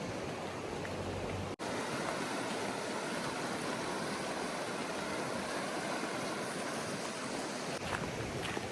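Steady rushing of water from a rain-swollen stream, broken by a brief dropout about one and a half seconds in.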